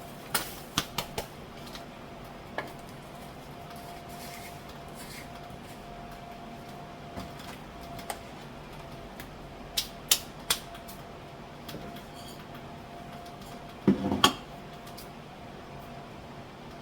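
Kitchen containers and jars being handled and set down in a cupboard: scattered sharp clicks and knocks, several in quick succession near the start, a few more midway and a louder knock with a dull thud near the end. A faint steady hum runs underneath.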